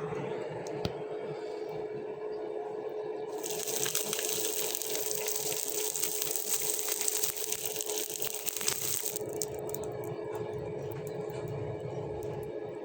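Electric grinder running steadily, with a stretch of hissing, crackling grinding of the steel blade from about three to nine seconds in.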